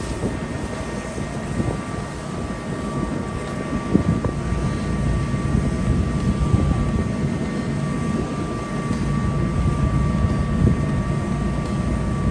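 An engine running steadily, a low rumble with a thin steady whine above it and a few faint knocks.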